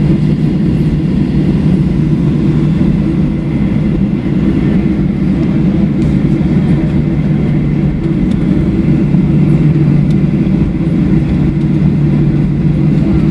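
Cabin noise of a Boeing 737-700 taxiing, its two CFM56-7B engines running at taxi power under a steady low rumble.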